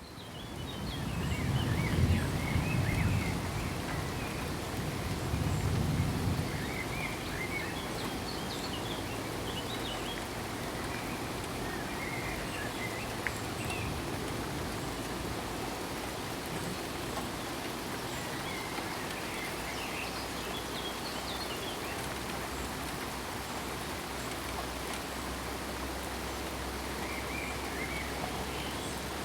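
Steady rain falling, fading in at the start. Two low rumbles come in the first few seconds, and short high chirps sound every few seconds over the rain.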